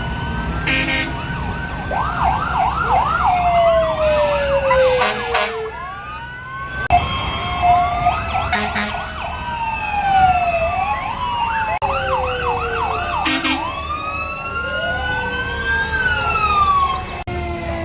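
Several emergency-vehicle sirens sounding together, overlapping wails with fast yelping stretches, and short horn blasts among them. The sound breaks off and restarts abruptly a few times.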